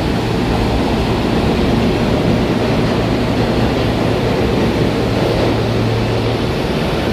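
New York City subway train moving through an underground station: a steady, loud rumble over a constant low hum.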